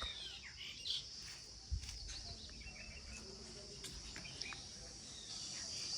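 Insects droning steadily at a high pitch, louder near the end, with scattered bird chirps and one dull thump about two seconds in.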